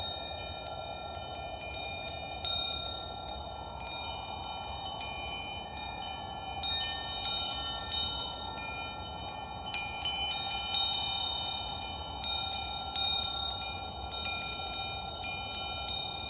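Wind chimes ringing, with high metallic tones struck at irregular moments and left to ring over one another, above a steady soft rushing noise. The strongest strikes come about ten and thirteen seconds in.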